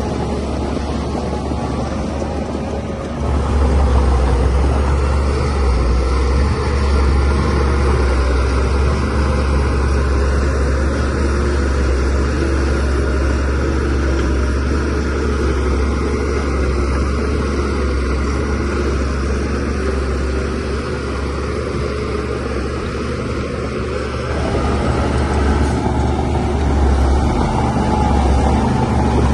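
DH17C3 bulldozer's diesel engine running steadily under load while pushing soil, with a deep drone. It grows louder about three seconds in, and again near the end as the load comes on harder.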